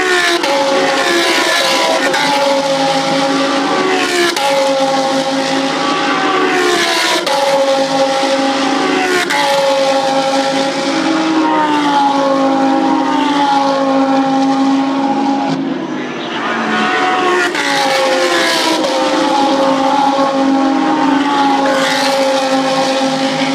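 Race car engine running hard at high revs, its pitch dipping briefly at each gear change every few seconds. About two-thirds of the way through it eases off and comes down in pitch, then pulls hard again.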